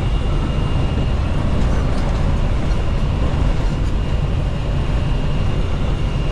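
Steady drone of a semi truck's engine and road noise heard inside the cab while driving, heaviest in the low end, with a faint thin high whine over it.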